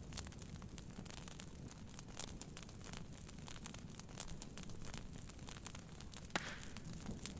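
Wood fire crackling with many small, sharp pops over a steady low rush of heavy rain on a tent; one louder pop about six seconds in.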